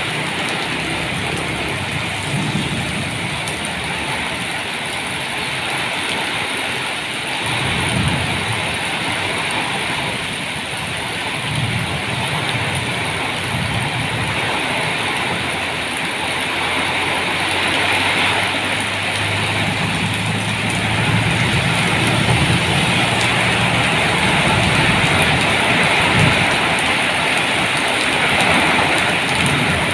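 Heavy rain falling steadily in an evening storm, with low rumbles that come and go throughout and a slight build in the second half.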